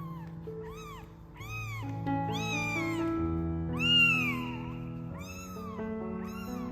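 Kitten meowing over and over, high-pitched rising-and-falling calls roughly once a second, the loudest about four seconds in, over background music.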